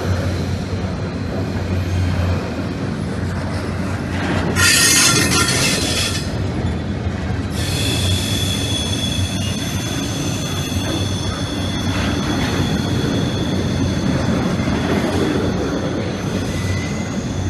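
Double-stack intermodal container well cars rolling past, with a steady rumble of steel wheels on the rails. About four and a half seconds in comes a louder screech lasting under two seconds, and from about halfway on thin high wheel squeals ring over the rumble.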